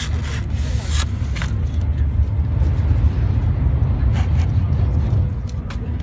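Steady low rumble of an N700 series Shinkansen running, heard inside the passenger cabin. A few short rustles and clicks of a bento box being slid out of its cardboard sleeve and its plastic lid handled come near the start, about a second in, and again about four seconds in.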